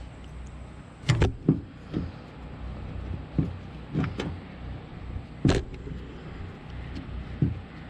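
A string of short knocks and clicks, about nine in all, the loudest about a second in and again at about five and a half seconds. They come from a distributor and small metal parts being handled while a replacement O-ring is tried on the distributor housing. A steady low hum lies underneath.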